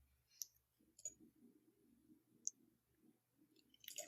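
Near silence broken by a few faint, sharp clicks, about four spread through, the last a small cluster near the end.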